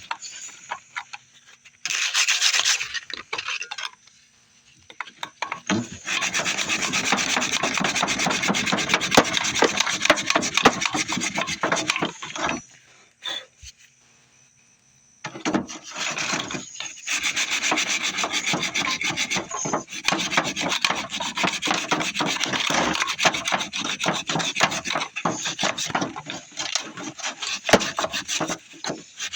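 Sandpaper rubbed quickly back and forth by hand on an oak hammer handle, in long runs of rapid strokes with two short pauses.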